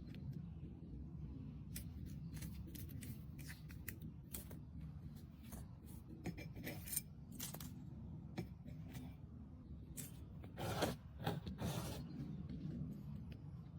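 Irregular small clicks and snips, like scissors or small objects being handled, over a low steady hum. Two longer, louder scraping bursts come near the end.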